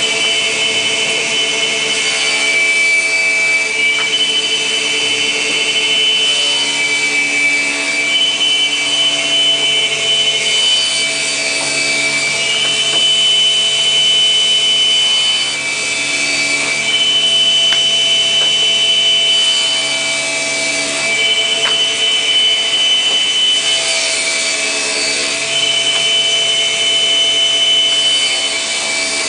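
Woodworking machine that cuts grooves into the underside of laminate parquet boards, running and cutting wood steadily, with a high whine whose tones shift every few seconds.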